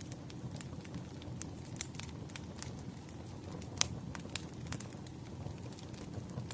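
Campfire crackling: irregular sharp pops and snaps over a low, steady rumble of burning wood, with one louder pop a little past the middle.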